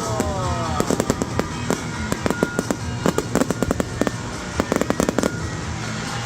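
Fireworks display: rapid volleys of crackling bangs and pops, coming in several dense clusters, with music playing underneath.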